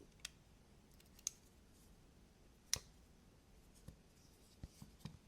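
A few faint, scattered clicks and taps of small metal knife parts being handled as a folding knife's two handle halves are pressed to snap together around the pivot. The sharpest click comes a little under three seconds in.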